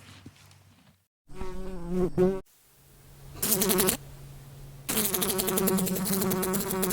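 Fly buzzing: a short buzz, then a fly buzzing against a window pane in bursts of about half a second and two seconds, with a low steady hum in the pauses.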